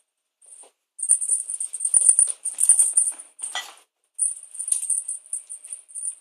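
Quick, irregular flurries of high jingling rattle from a cat playing with a feather wand toy, starting about a second in, with a short rustling scuffle about three and a half seconds in.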